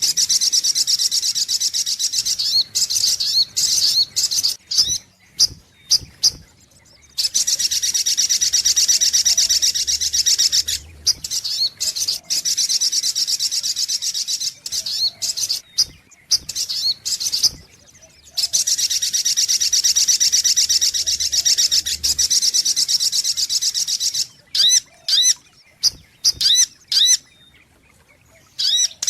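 Sogok ontong, a sunbird, calling in long, very rapid high-pitched trills. Several short sharp notes and brief pauses come between the trill runs, as on a repeated bird-lure recording.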